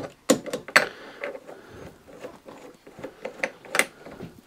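Scattered clicks and knocks of metal tools and small engine parts being handled on a workbench, about six sharp knocks spread over a few seconds.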